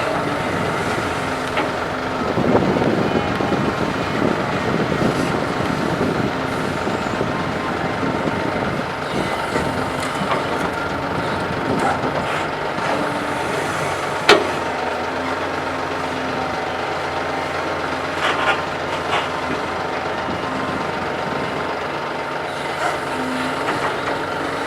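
Diesel engines of a Doosan DK225LCA hydraulic excavator and a ten-wheel dump truck running steadily, with a rattling rush about two to five seconds in and a single sharp clank about halfway through.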